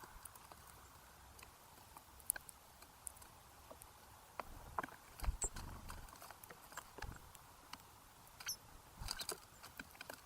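Scattered sharp taps and clicks of birds pecking and cracking seed at a feeder close to the microphone, with a couple of soft thumps about five and seven seconds in. Two brief high chirps come in the middle and near the end.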